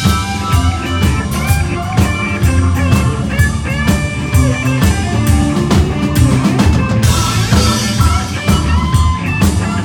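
A live blues band plays an instrumental passage: drum kit and bass keep the groove under a guitar playing bent lead notes. A cymbal wash swells near the end.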